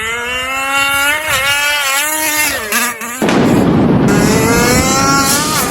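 Radio-controlled car's motor revving with a high buzz, its pitch rising and falling. About three seconds in, a loud rough noise cuts in under a fainter motor tone.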